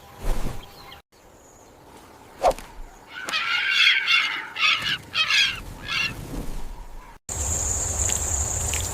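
A run of about five loud, harsh, pitched animal calls, following a single sharp click. Near the end the sound cuts to a steady high insect drone over a low rumble.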